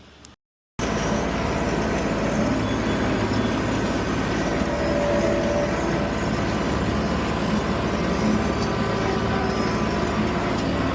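Tractor engine running steadily, cutting in abruptly after a split-second gap of silence just under a second in.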